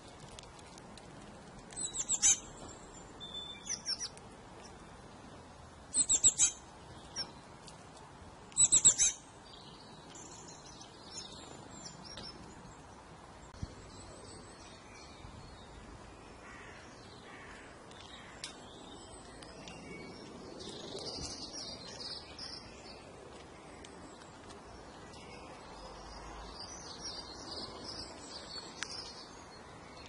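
Birds chirping: a few short bursts of loud, high chirps in the first ten seconds, then fainter twittering later on.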